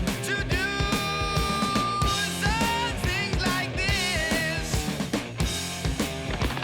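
Rock music with a drum kit beating steadily under a lead line that holds notes and bends in pitch.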